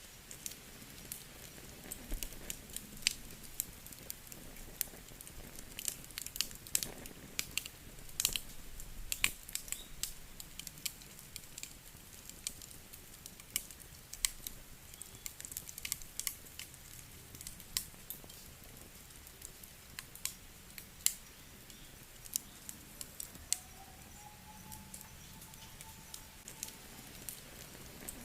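Crackling wood fire: irregular sharp snaps and pops over a low steady hiss.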